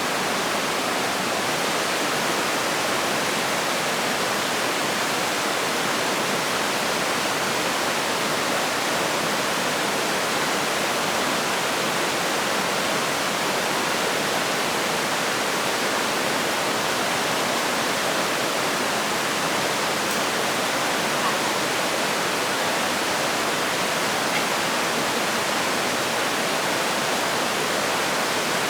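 Steady rushing of flowing water, even and unchanging in level.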